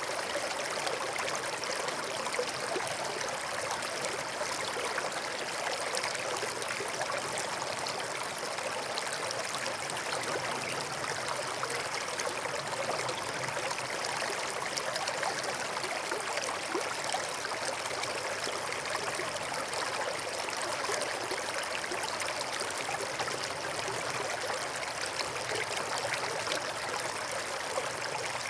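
Forest stream flowing and trickling over stones in a steady, even babble.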